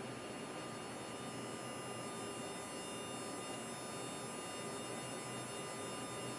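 Steady flight-deck background noise of a Boeing 767-300ER on final approach: an even rush of air with a faint, constant high whine.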